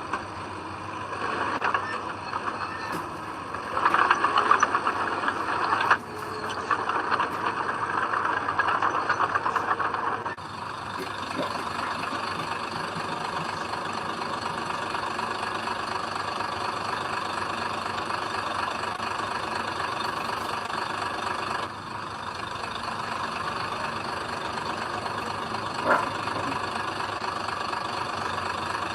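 Diesel engine of heavy earthmoving machinery running steadily, louder for stretches in the first ten seconds, with a short knock near the end.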